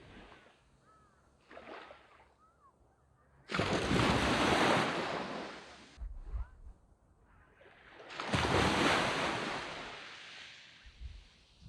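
Waves breaking on a sandy beach. Two waves surge in and wash up the shore, one about three and a half seconds in and the next about eight seconds in, with quieter lulls between.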